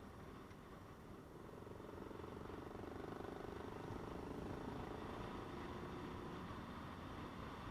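Motor vehicle engine running with road noise, its engine tone swelling through the middle and fading near the end.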